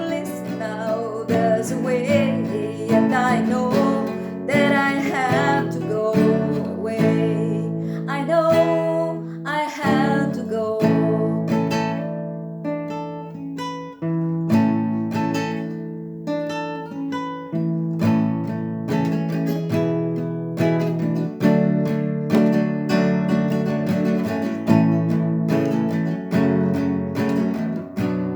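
Acoustic guitar strumming chords, with a voice singing over it for roughly the first ten seconds, then the guitar on its own.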